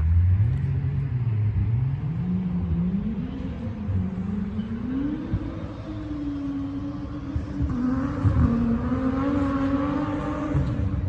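A motor vehicle's engine speeding up, its pitch climbing in steps over the first five seconds or so, then running at a fairly steady higher pitch.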